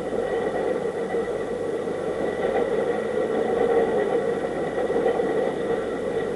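A steady mechanical running drone, even throughout, with a faint steady high-pitched tone above it.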